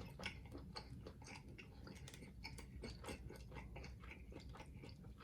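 A person chewing a mouthful of food close to the microphone: faint, irregular wet clicks and smacks of the mouth.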